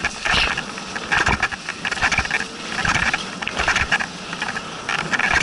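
A musher's rhythmic effort behind a two-dog sprint sled, close to the microphone: a hissing stroke a little faster than once a second, typical of hard breathing and kicking through snow while pedalling.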